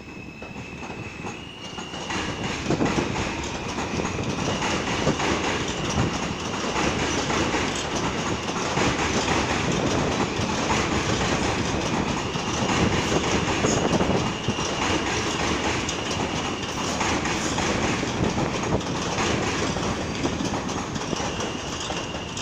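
R160A subway train rolling through and picking up speed, its wheels clacking rhythmically over rail joints. A high-pitched wheel squeal comes and goes over the clatter. The sound grows louder over the first few seconds and then holds.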